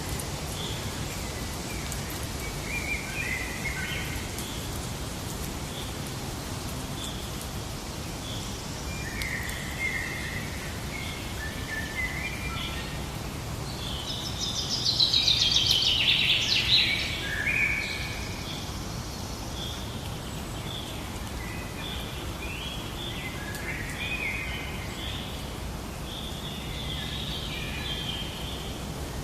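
Birds chirping and singing over a steady background hiss of outdoor ambience. There are short scattered calls, and about halfway through a louder burst of rapid song lasts about three seconds.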